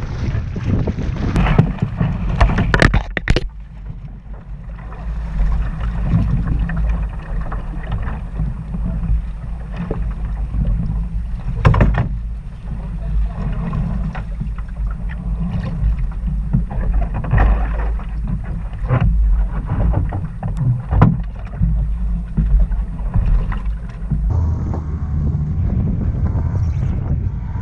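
Strong wind buffeting the microphone on a 420 sailing dinghy, a steady low rumble. Sharp splashes and knocks of water against the hull come every few seconds.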